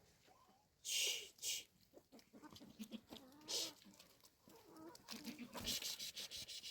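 Farm animals calling, with short bursts of hissing, rustling noise.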